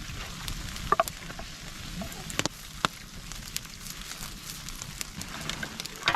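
Campfire crackling, with scattered sharp snaps and pops over a steady low rush.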